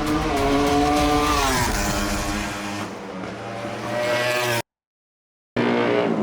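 Racing superbike engine running at high revs, dropping in pitch as it slows for a corner and then holding steady. It cuts off abruptly for about a second, then comes back with the pitch falling again.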